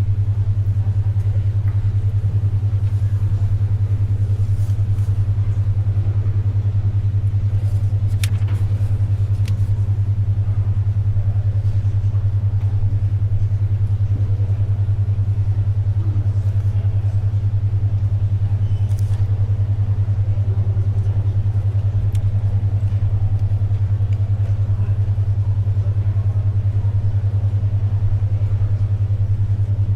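A 10.2 Hz alpha brainwave beat: a steady low tone near 100 Hz that pulses rapidly. Under it, faint library ambience, with a few light clicks and rustles of paper and pencil.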